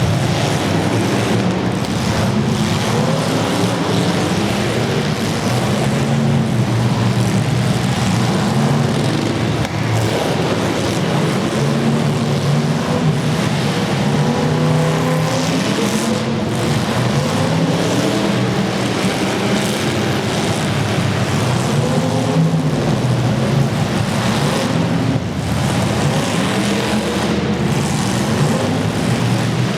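Several demolition derby car engines running hard at once, their pitch rising and falling as the drivers rev up and back off.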